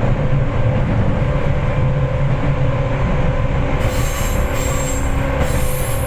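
Running noise inside a Seibu 4000 series resistance-controlled electric train car: a steady low rumble of wheels and running gear on the track, with a thin steady tone above it.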